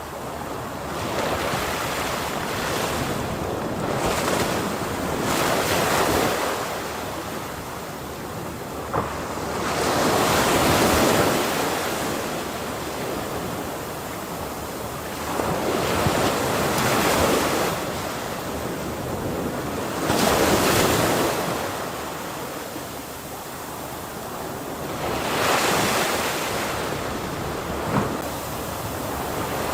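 Ocean waves breaking on a shore, a wash of surf that swells and ebbs about every five seconds.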